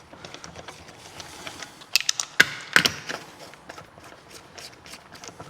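Wheel bolts and a car wheel being handled at the hub as the wheel is mounted: a run of small metallic clicks, with a few sharper knocks about two to three seconds in.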